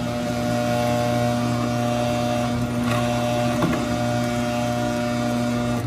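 Garage door opener motor running as it closes the door: a steady mechanical hum with a light rattle, which stops abruptly near the end as the opener shuts off.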